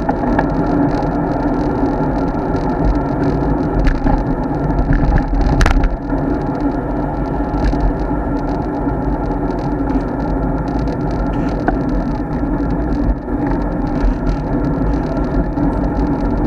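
Steady rush and rumble of riding a road bike: wind and tyre noise, with one sharp click about five and a half seconds in.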